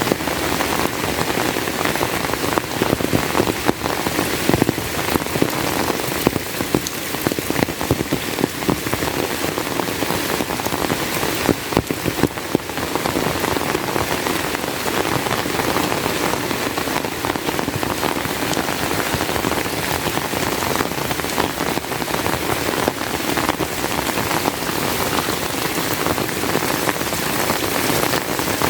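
Heavy rain falling steadily: a dense, even rush with many close individual drop hits.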